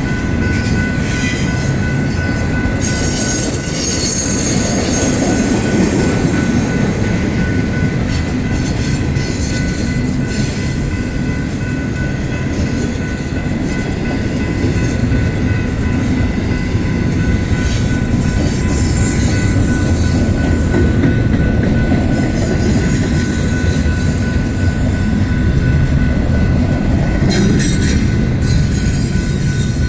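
Freight cars of a BNSF intermodal train rolling past: a steady, loud rumble of steel wheels on rail, with high-pitched wheel squeal rising a few seconds in and again about two-thirds of the way through.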